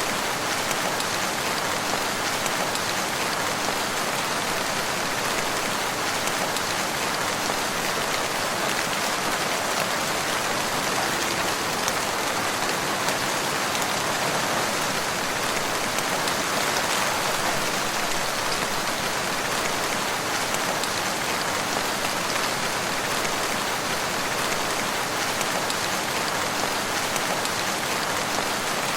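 Steady rain falling on leaves and ground in a wood, an even hiss of many drops with no change in intensity.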